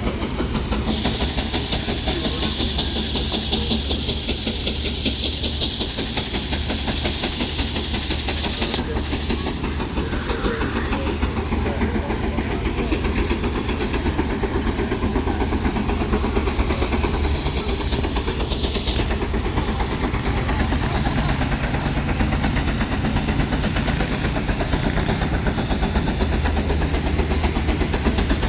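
Steam traction engine working under load in a tractor pull, its exhaust beating rapidly and steadily. A loud hiss of steam runs for several seconds near the start.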